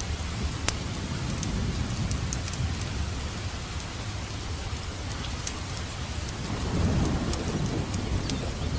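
Steady rain with a low rolling thunder rumble that swells about three-quarters of the way through. Scattered sharp crackles from a wood fire sound over it.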